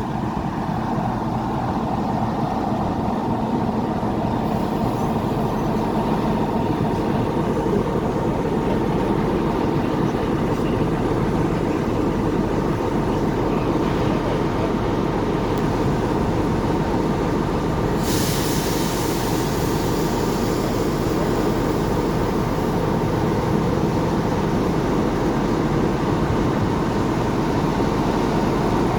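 Class 45 'Peak' diesel locomotive's Sulzer twelve-cylinder engine running steadily at low power as it buffers up, slowly growing a little louder. A hiss of air comes in about eighteen seconds in.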